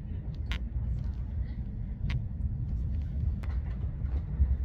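Passenger train running, heard from inside the carriage as a steady low rumble, with a few short clicks.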